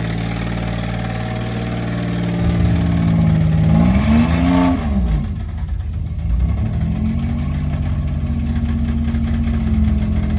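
Off-road vehicle engine running at low revs, revved up once about four seconds in, then dropping back to a steady run.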